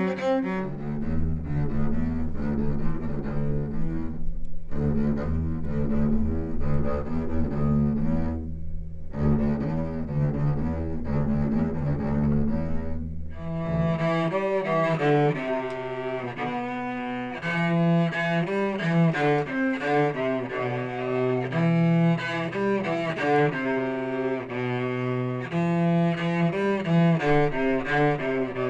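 Bowed string music carried by cello and double bass, the bass line moving in steady repeated notes. About halfway through, higher parts come in above it and the texture grows fuller.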